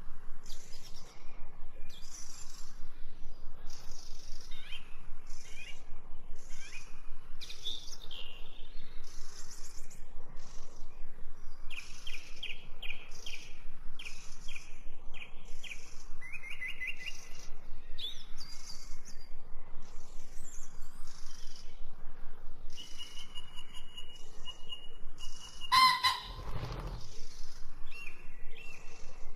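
Songbirds chirping and singing in quick, repeated short calls and trills. A brief thump sounds near the end.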